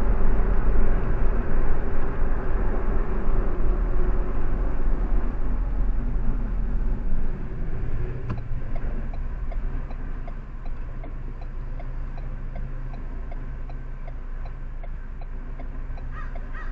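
Road and engine rumble heard inside a moving car's cabin, louder for the first half and quieter after about eight seconds. From about halfway in, a steady ticking runs at about two clicks a second.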